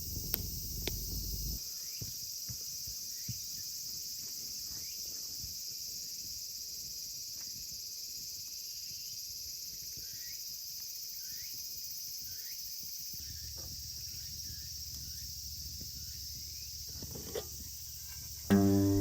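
Steady, high-pitched chorus of insects chirping, with faint short chirps and light ticks over it. Just before the end, plucked guitar music starts loudly.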